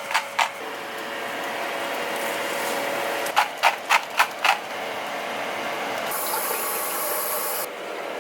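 A quick run of about five sharp mechanical clicks, a few per second, over a steady background hum; a brief hiss near the end.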